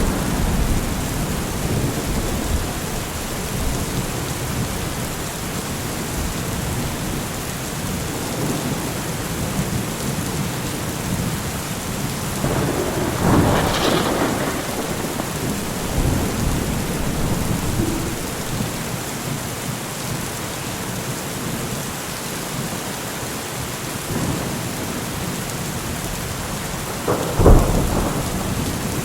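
Thunderstorm with steady rain hissing throughout and thunder rumbling in swells. A sharp, loud thunderclap comes near the end.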